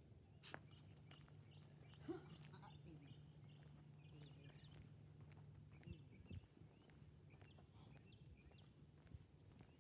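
Near silence with faint birds chirping in the background, a low steady hum for the first six seconds or so, and a few soft knocks.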